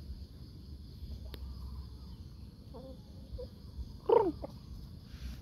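Chickens giving a few soft short calls, with one louder, brief call about four seconds in.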